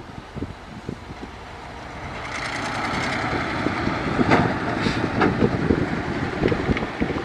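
Heavy earthmoving machinery running, growing louder about two seconds in, with several sharp clanks and knocks over the engine noise.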